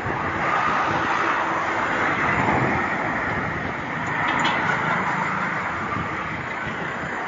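Steady rushing noise of wind and passing road traffic heard while riding a bicycle.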